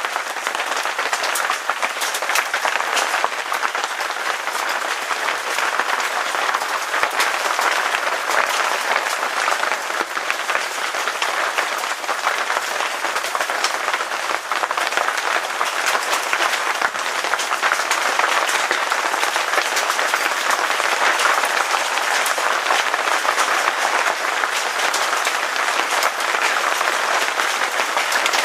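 Hailstones pelting down steadily, a dense, unbroken hiss of countless small impacts.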